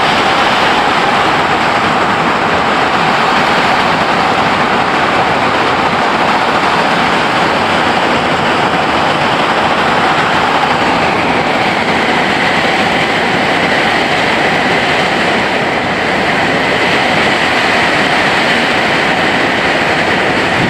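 Heavy rain falling: a loud, steady, unbroken rushing hiss.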